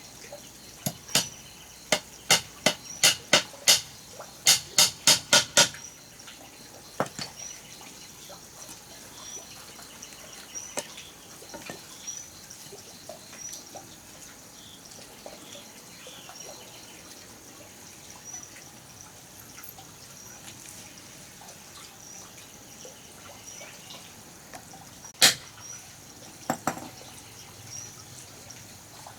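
A quick run of sharp knocks, about two to three a second, in the first few seconds, then a single loud knock and a few lighter ones near the end. Under it, a faint high chirp repeats about once a second.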